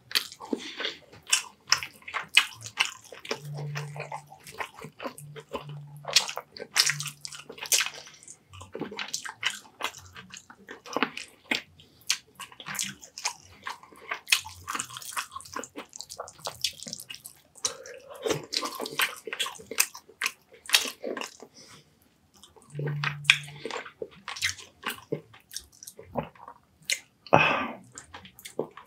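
Close-miked eating: wet chewing and lip-smacking of soft baked fish and rice, with irregular smacks and clicks throughout.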